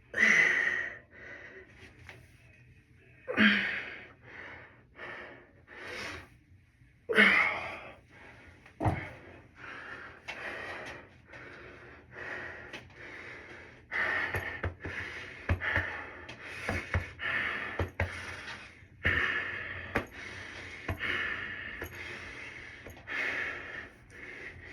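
A person breathing hard in short, forceful breaths and gasps, roughly one a second. The loudest come at the start and about three and a half and seven seconds in.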